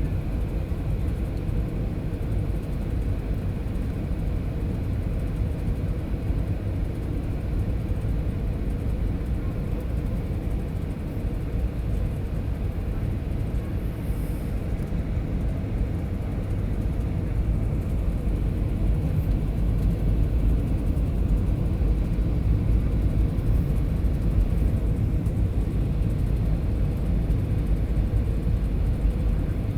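Cabin noise of a Boeing 737-700 in flight on approach: the steady low rumble of its CFM56 engines and the airflow over the fuselage, growing a little louder about two-thirds of the way through.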